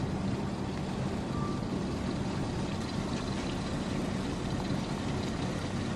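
Tour boat's engine running steadily under way, a low even hum with water and wind noise over it.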